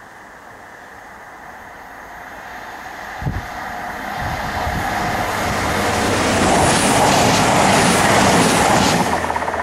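A train approaching and passing close by, its rumble and rail noise growing steadily louder to a peak in the last few seconds. A short low thump comes about a third of the way in.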